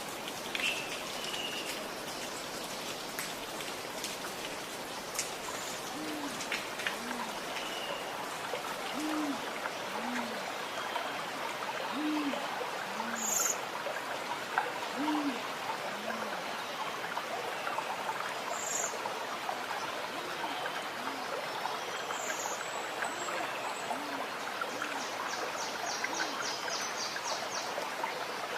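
Gurgling running water with a bird's low hoots in pairs, a higher note then a lower one, repeating about every three seconds and fading after the middle; a few short, high chirps from other birds.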